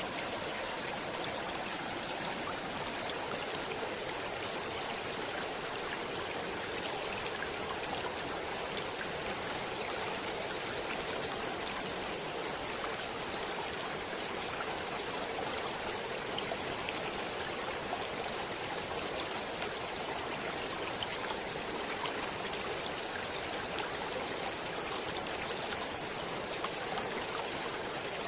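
Flowing water of a stream running steadily, an even rushing with small splashes and trickles scattered through it.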